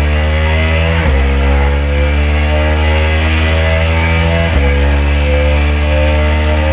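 KTM RC 390's single-cylinder engine accelerating hard, its pitch climbing steadily, with two quick upshifts: about a second in and about four and a half seconds in.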